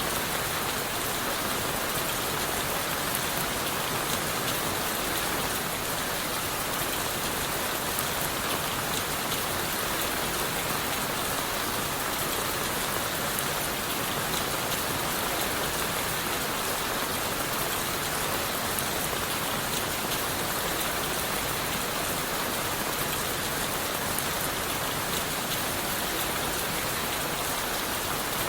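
Steady rain falling on leaves, wood and the forest floor, a dense even patter of drops with no break.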